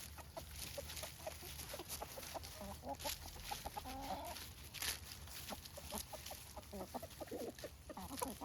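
Free-range chickens clucking softly as they gather to feed, with many short, repeated calls. A couple of sharp clicks come about three and five seconds in.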